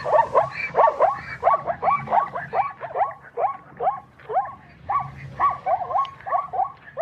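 A dog yelping in a rapid string of short, high yips, about three a second, each one sliding in pitch.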